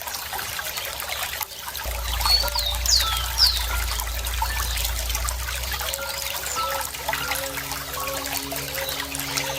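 Running water trickling and splashing steadily, with birds chirping over it; a few quick falling chirps stand out about two to three and a half seconds in.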